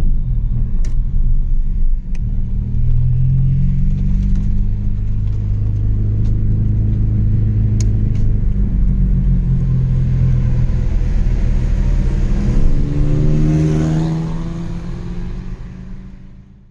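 Chevrolet Astra 2.0 four-cylinder engine with a straight-through exhaust, driving with a low exhaust rumble whose pitch rises and falls with the revs. It climbs in pitch under acceleration near the end, then fades out.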